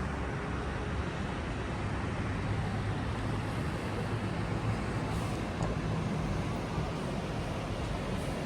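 Steady outdoor background noise with a low hum, like distant road traffic.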